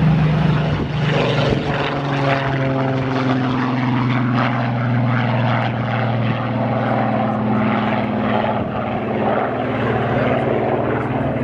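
Piston-engined propeller aircraft running loudly, its engine note falling in pitch over the first few seconds and then holding steady.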